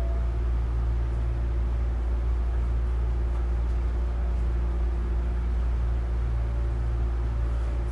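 Interior noise of a Hankyu 9000 series electric train: a steady low rumble with a faint constant hum.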